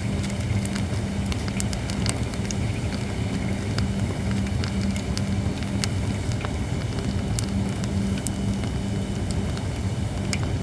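Holly firewood burning in a campfire, crackling with scattered sharp pops over a steady low hum.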